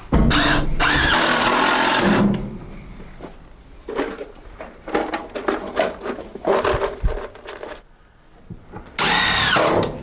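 Power drill running in two bursts, one of about two seconds at the start and a shorter one near the end, its motor pitch rising and falling. Scattered knocks and clatter of wood between the bursts.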